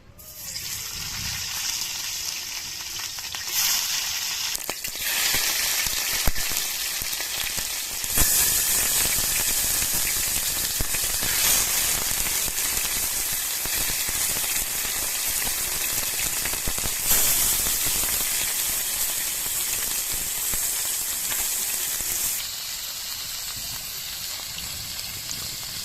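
Food sizzling as it fries in hot oil in a cooking pot, a steady loud hiss that swells about a third of the way in and eases near the end.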